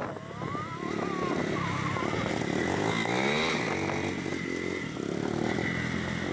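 Honda CB 300 motorcycle engine running, revving up sharply about three seconds in and then easing back. A thin wavering high tone sounds over it in the first second or so.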